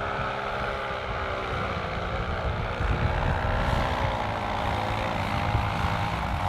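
Paramotor engine and propeller running with a steady buzz as the pilot comes in to land, over gusty wind rumbling on the microphone.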